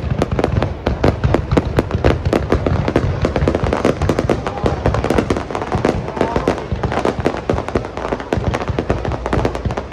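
Fireworks display: a dense, continuous barrage of bangs and crackles, many each second.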